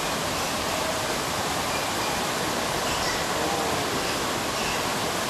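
Steady, unbroken rush of water from the flood rainstorm, an even roar with no distinct events.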